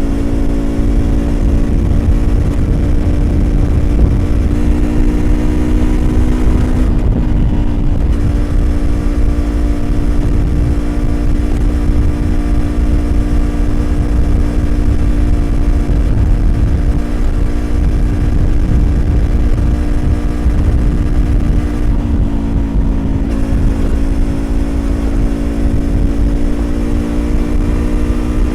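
Yamaha YZF-R25's 249 cc parallel-twin engine through a Prunus aftermarket exhaust, riding at steady revs under a heavy low wind rumble. The note eases briefly twice, about seven seconds in and again about twenty-two seconds in.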